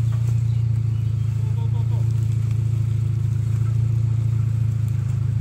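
Opel Frontera 4x4's engine running with a steady, even drone, no revving.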